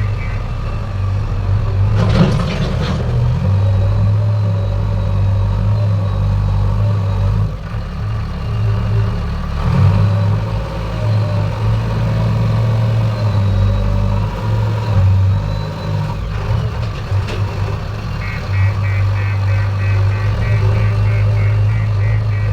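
Heavy diesel engine of a working machine running steadily, with a short clatter of knocks about two seconds in and smaller knocks later.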